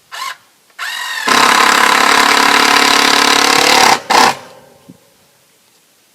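Handheld power tool: the motor spins up to speed, runs under load for about three seconds and stops, followed by one short second burst.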